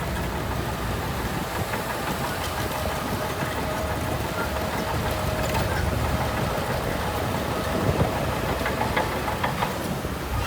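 Heavy diesel earthmoving machinery running steadily, with a faint steady whine through the middle and a few scattered clanks, the loudest just under eight seconds in.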